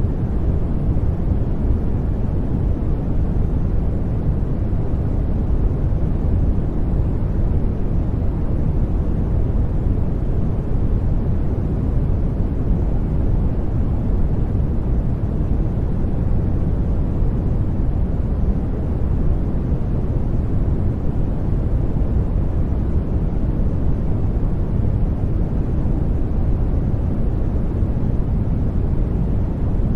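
Steady sleep noise: an even, unbroken hiss that is heavier and deeper in the low end, with no changes.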